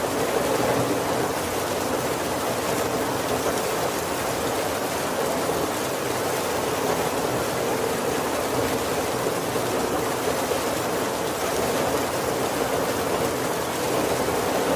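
Steady heavy rain falling on a roof, an even hiss with no distinct drops or thunder standing out.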